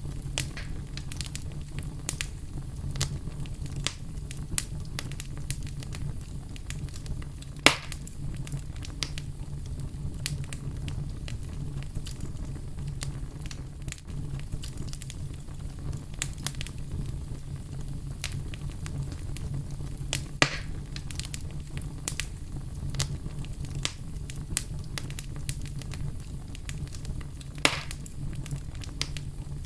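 Wood fire burning with a steady low rumble and constant small crackles, with three louder sharp pops, about 8, 20 and 28 seconds in.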